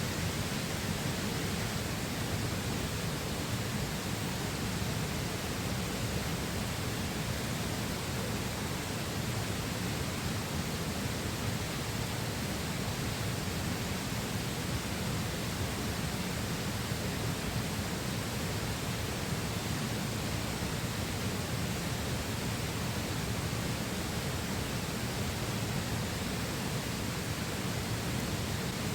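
Flowing river water rushing steadily, an even, unbroken wash of sound with no crackles or other events.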